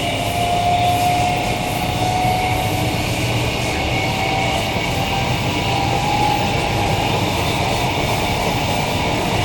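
Queensland Rail electric multiple unit (EMU) running along the line, heard as steady rumbling wheel and running noise. A whine rises slightly in pitch over the first second or two and then holds steady.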